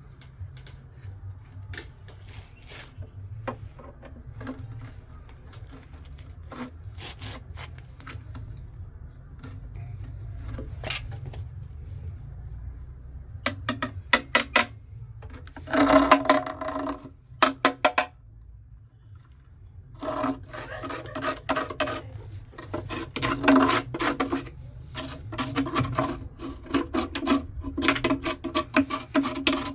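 Scraping and rubbing in quick repeated strokes, coming in bursts that grow denser and louder in the second half, over a steady low hum.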